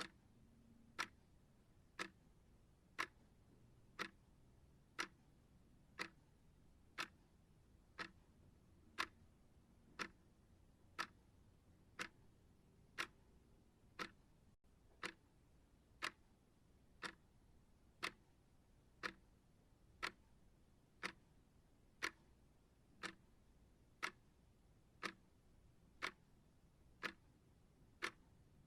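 Clock ticking steadily, one sharp tick each second, as a timer's pacing sound.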